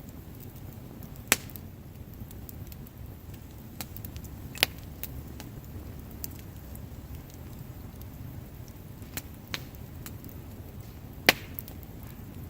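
Wood fire crackling, with sharp pops now and then, three of them much louder than the rest, over a steady low rumble.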